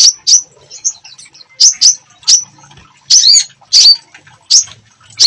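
Songbird singing loud, sharp, high chirps and short falling notes, spaced about half a second to a second apart with short pauses between them. It is the lively song played as a 'masteran' recording, used to teach caged songbirds new phrases.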